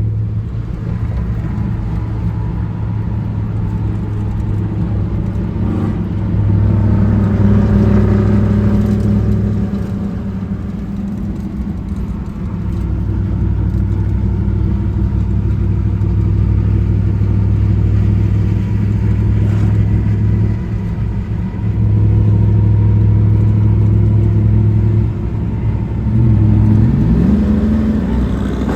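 Motor vehicle engine running with a steady low drone, swelling louder in several stretches and rising briefly in pitch near the end as it is revved.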